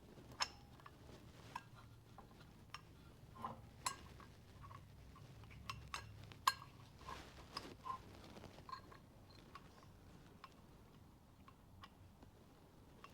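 Scattered light metallic clicks and taps, a dozen or so at irregular intervals, as small metal parts are handled and fitted on a 5.9 Cummins engine block.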